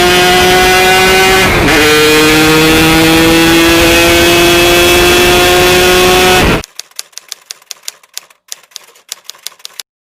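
Yamaha RX-King two-stroke single-cylinder motorcycle engine held at high revs, dipping for a moment about a second and a half in and climbing back, then cutting off abruptly. Faint quick ticking follows.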